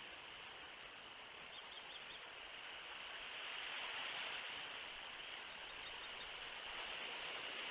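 Steady rushing outdoor background noise on an open nest-cam microphone, swelling a little midway and again near the end, with a few faint high chirps about a second and a half in.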